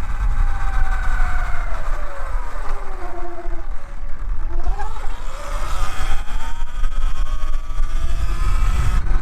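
Segway X160 electric dirt bike's motor whine, falling in pitch as the bike slows over the first few seconds, then rising again as it speeds back up, over a steady rumble of wind on the microphone.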